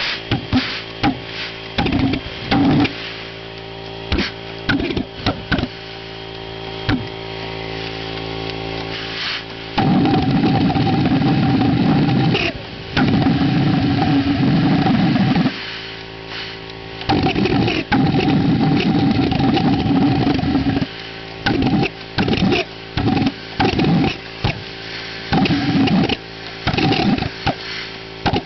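Homemade propane pulsejet being fired with a spark plug and compressed air: it lights in a string of short sudden pops, and three times catches for a few seconds of loud running before dying out. It never keeps itself going, which is the fault the builders are asking about. A steady mechanical hum runs underneath throughout.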